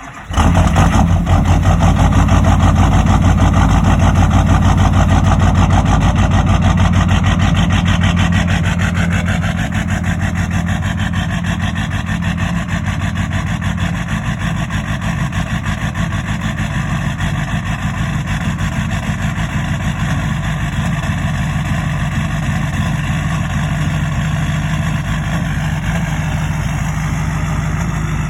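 Duramax LLY 6.6-litre V8 turbodiesel catching about half a second in on a cold start without a block heater, then running with a dense, rapid diesel clatter. The fast cold idle eases to a slightly quieter steady idle about 8 to 10 seconds in.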